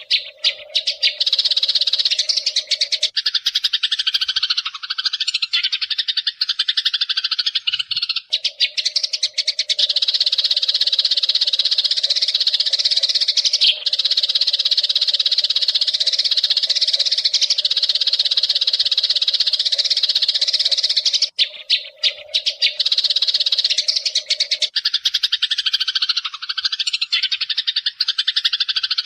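Eurasian tree sparrows chirping and chattering continuously in a dense, busy chorus.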